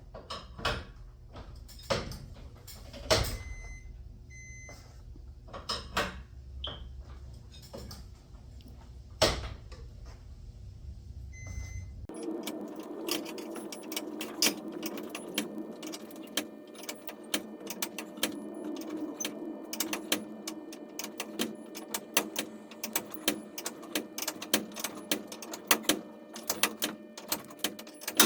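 Sharp metal clanks and knocks from unwinding a garage door torsion spring with winding bars. From about twelve seconds in, a steady mechanical hum with rapid clicking takes over.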